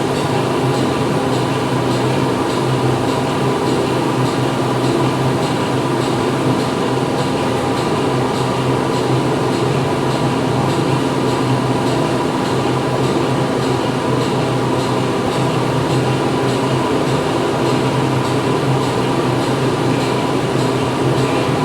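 Factory floor ambience: machinery running steadily with a constant low hum and a faint, rapid regular ticking over it.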